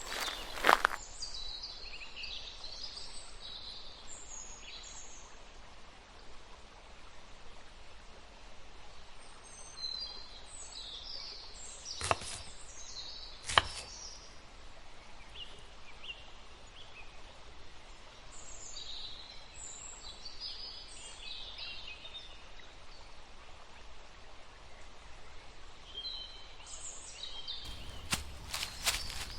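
Outdoor background hiss with small birds chirping on and off, and a few sharp knocks: one about twelve seconds in, another a second and a half later, and a short cluster near the end.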